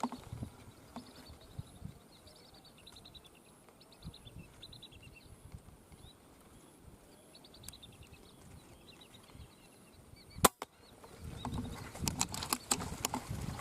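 One sharp crack of an FX Impact PCP air rifle shot about ten and a half seconds in, the loudest sound, followed by rustling and clicking handling noise. Before it, faint high chirping bird calls over quiet outdoor ambience.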